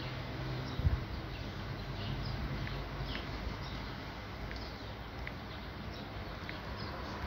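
Faint, scattered high chirps of small birds over a steady background hiss, with one low thump about a second in.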